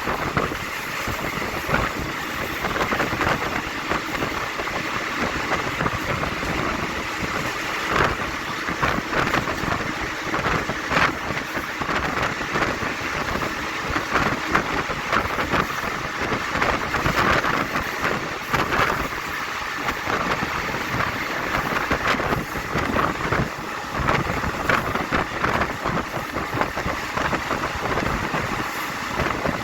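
Passenger train running along the track, heard from on board: a steady rushing noise with a constant patter of clicks and rattles from the wheels and carriage.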